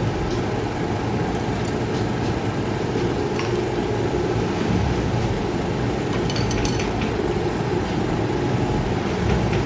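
Steady machine noise, with a few light metallic clinks about six and a half seconds in.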